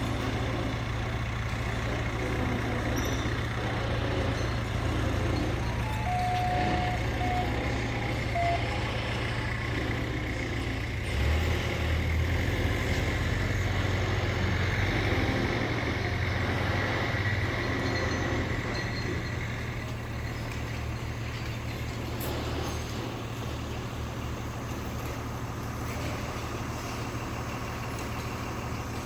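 A heavy vehicle engine running steadily with a low rumble, a little louder in the middle and easing slightly in the second half, with a few short beeps about six to eight seconds in.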